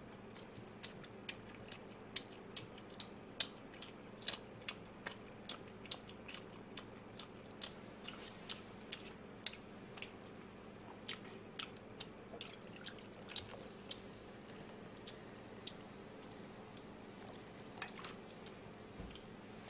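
Close-miked crunchy chewing of fried food: a run of sharp crackling clicks, about two or three a second, that thins out after about fourteen seconds, with a low knock near the end.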